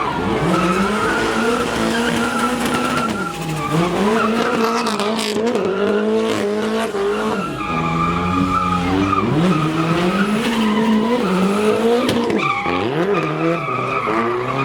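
Car drifting: the engine revs rise and fall again and again while the tires skid and squeal.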